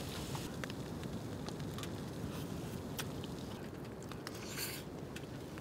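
Faint chewing and small clicks of eating, over a low steady patter of rain on the tent.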